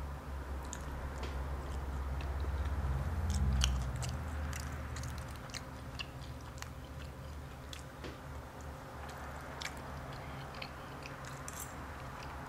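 Close-miked chewing of fried mojarra fish, with many small wet clicks and smacks. A low rumble of chewing swells to its loudest a few seconds in.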